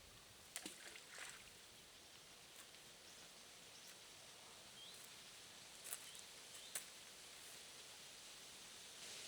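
Near silence: faint steady background hiss with a few soft clicks, the two sharpest about six and seven seconds in.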